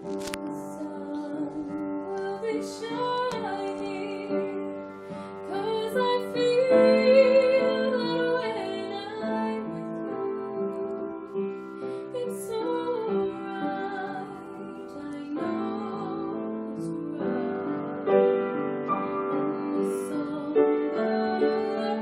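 A woman singing a slow ballad to piano accompaniment, with a wavering vibrato on her held notes.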